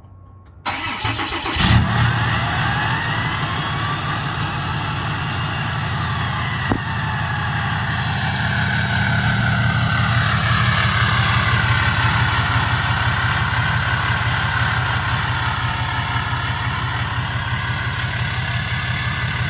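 A 6.7 L Cummins turbo-diesel in a 2017 Ram 2500 cranking and catching on a cold start, with a loud burst about a second and a half in, then settling into a steady idle through a 4-inch straight pipe. The Fleece Cheetah turbo's whistle rises and falls above the idle.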